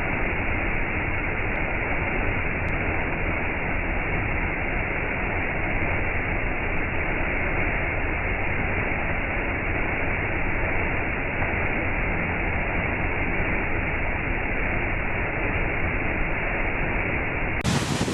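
Waterfall: water falling and rushing in a steady, even roar. Just before the end it cuts to a different, brighter rushing sound.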